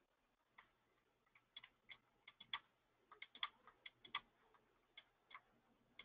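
Faint, irregular clicking of computer keys and mouse buttons, some in quick runs, as someone works a computer.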